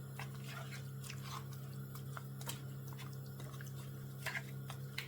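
Curry chicken cooking in the pot, giving scattered small pops and crackles, over a steady low hum.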